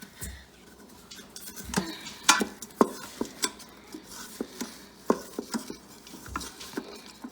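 A spoon stirring chopped onions in the inner pot of an Instant Pot, with irregular clinks, knocks and scrapes against the pot, a few of them sharper about two and a half seconds in.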